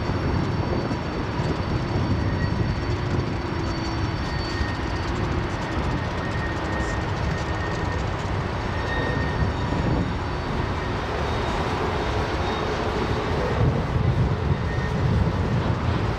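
Freight train cars rolling past with a steady rumble and rail noise, faint high wheel squeals coming and going, and the rumble growing a little louder near the end.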